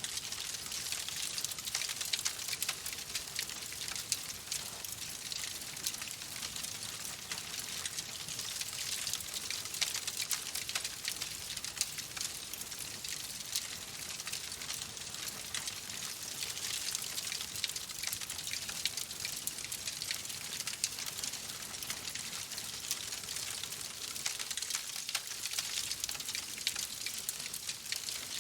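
Wood fire crackling in a fireplace: a steady hiss dense with small crackles and pops.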